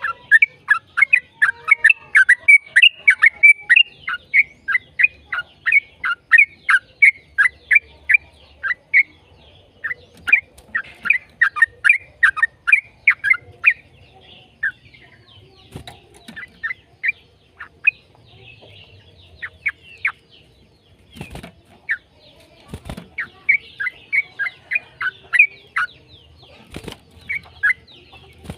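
Yellow-vented bulbul (trucukan) singing long, rapid runs of short downward-slurred notes, about four a second, with short pauses between runs. A few brief knocks come in the second half.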